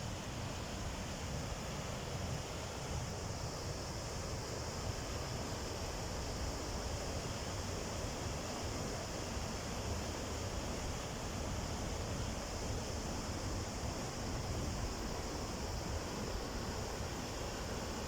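Waterfall rushing with a steady, unbroken noise.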